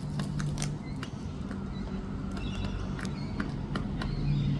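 Wild cockatoo giving a few faint, high squeaks about two and a half seconds in, among scattered sharp clicks, over a steady low hum.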